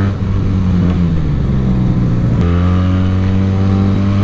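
Benelli TNT 300 motorcycle's parallel-twin engine running, its pitch sinking over the first two seconds; about halfway through there is a sharp click and the note jumps up and holds steady.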